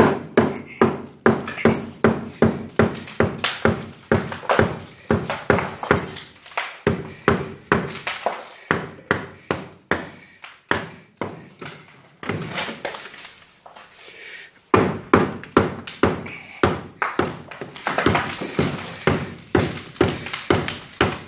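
Repeated hammer blows on brick masonry, about three a second, pausing briefly twice: a brick fireplace being knocked apart.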